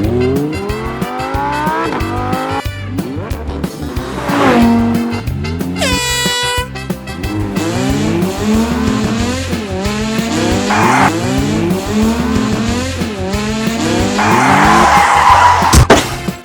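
Race-car sound effects over background music: engines revving up again and again in rising whines, with tyre squeals and a horn blast about six seconds in.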